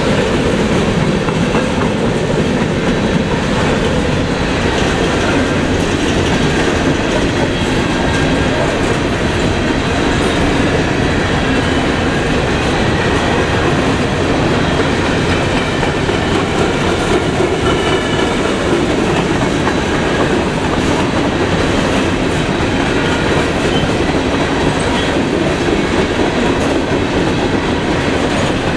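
Freight train rolling past, a steady loud rumble of wheels on rail with clickety-clack over the rail joints.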